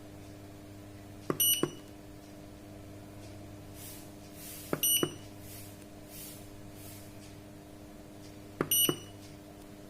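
Sanken digital solar water heater controller beeping as its buttons are pressed: three short high beeps a few seconds apart, each framed by a pair of button clicks. A steady low electrical hum runs underneath.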